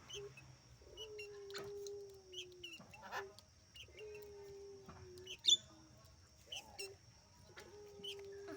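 A caged dove cooing: three long, low, drawn-out coos about three and a half seconds apart, each sliding down slightly at the end. Short high chirps from small birds come between them, with a sharp click about five and a half seconds in.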